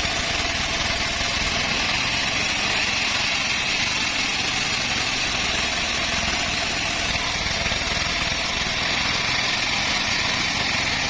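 Band sawmill running with a steady, unbroken mechanical noise.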